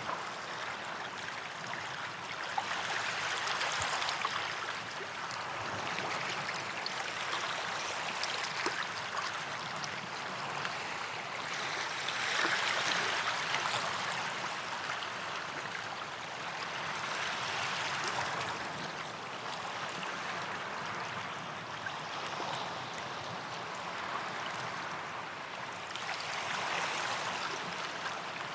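Small sea waves washing up a sandy beach and draining back, the wash swelling and easing every four to five seconds.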